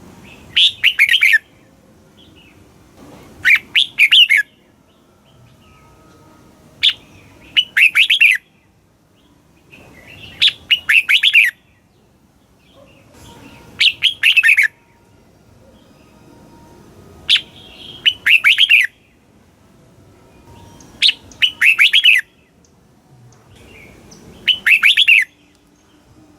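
Red-whiskered bulbul singing: short phrases of several quick notes, repeated about every three to four seconds.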